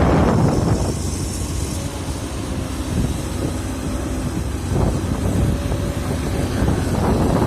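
Excavator engine running at a construction site, with wind noise on the microphone. It is louder at first, eases off about a second in and picks up again near the end.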